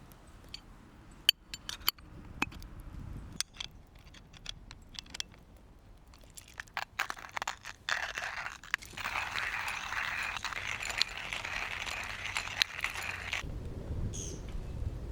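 Scattered clicks and clinks of things being handled, then a steady crunching grind for about five seconds that stops suddenly.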